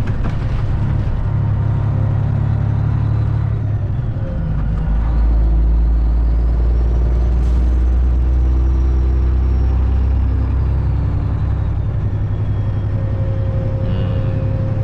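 Straight-piped Detroit diesel of a Freightliner Classic XL semi truck running under way, heard from inside the cab: a steady deep exhaust drone that dips briefly about four seconds in, then runs louder.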